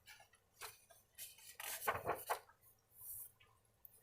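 Rustling and light clattering of things being handled close to the microphone, in a few short bursts, the loudest a little under two seconds in.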